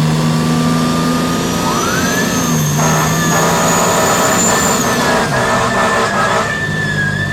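Fire engine siren sounding from inside the moving rig. Its pitch climbs about two seconds in and then holds high, wavering slightly, over the steady running of the truck's engine.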